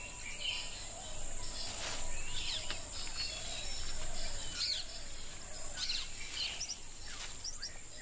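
Rainforest ambience: short, high bird chirps and quick whistled glides scattered throughout, over a steady high hiss.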